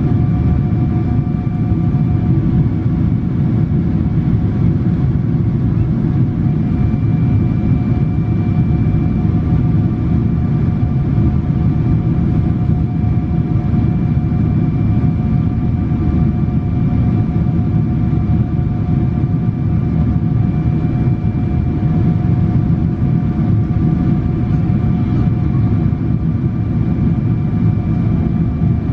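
Boeing 777-300 cabin noise in flight: a steady low roar of the engines and airflow, with a few faint, steady whining engine tones over it.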